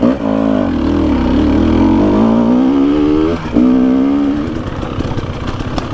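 Dirt bike engine revving and easing off under throttle on a trail. The pitch rises and falls, cuts out briefly about three and a half seconds in, climbs again, then drops to a rougher, lower note near the end.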